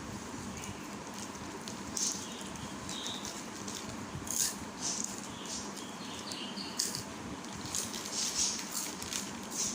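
Pet parrot eating a snack: short, crisp crunches and clicks of its beak on the food, scattered every second or two over a steady background hiss.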